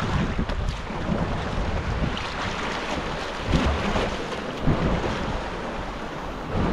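Sea wind buffeting the microphone over waves and water splashing around a sea kayak, with a low steady rumble and a few brief splashes.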